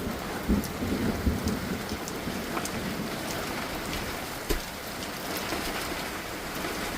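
Heavy monsoon rain pouring down and pattering on surfaces, with scattered sharp drop ticks and one dull knock about four and a half seconds in.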